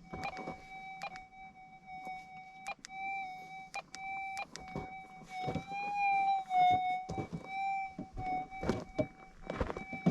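Metal detector's steady electronic threshold tone, wavering slightly in pitch now and then as the coil is swept over the tunnel floor, with scattered knocks and scrapes of the coil and tools against rock and dirt.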